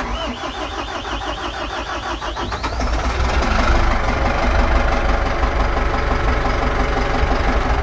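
Volvo Penta marine diesel engine being started after its fuel system was primed and bled: it cranks for about two and a half seconds, then catches and runs steadily.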